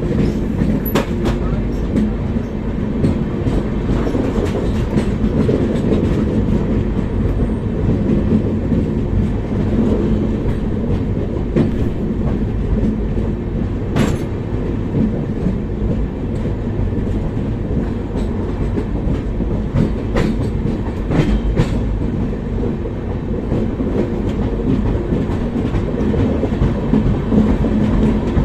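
Gitanjali Express passenger train running along the track: a steady, loud rumble of wheels on rail with a few sharp clicks scattered through it.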